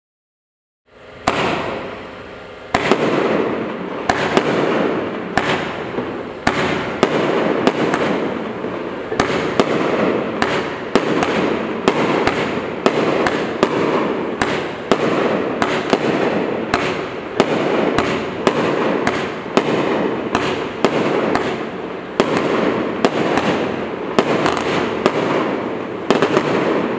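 Polaris 25-shot 30 mm firework cake firing. About a second in, a rising hiss starts. Then comes a rapid, steady series of sharp bangs, roughly one or two a second, with hissing between them.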